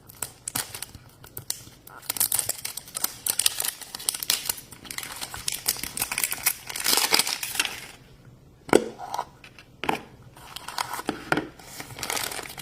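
A surprise toy's wrapper being unwrapped by hand: dense crinkling and tearing, with a few separate sharp crackles near the end.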